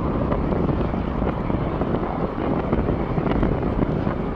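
Steady rumbling noise of jet airliner engines at the airport, mixed with wind on the microphone.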